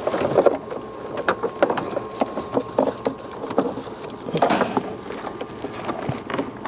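Hands handling the plastic EVAP purge valve hose and connector in the engine bay: irregular small clicks, taps and rubbing of plastic parts.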